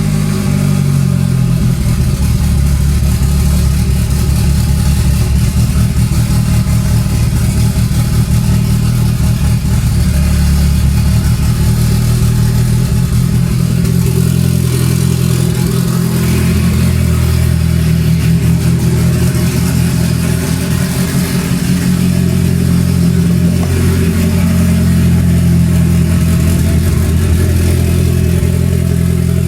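Eagle Talon's four-cylinder engine idling after a cold start, still on its warm-up fast idle. The idle shifts slightly about a second in and again about halfway through.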